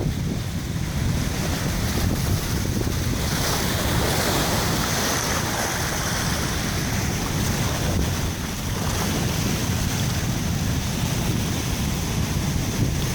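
Heavy ocean surf from a hurricane swell, a steady rush of breaking waves, with wind buffeting the microphone.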